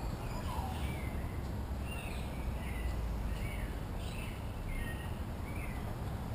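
Birds calling in the background: short whistled chirps that rise and fall, repeated every half second or so, with a steady low rumble underneath.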